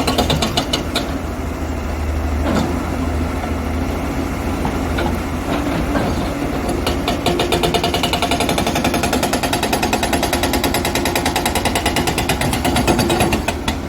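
Hydraulic rock breaker on a JCB excavator hammering rock in fast, even blows. About a second in it stops, leaving the excavator's diesel engine running with a few single knocks. About seven seconds in it starts hammering again.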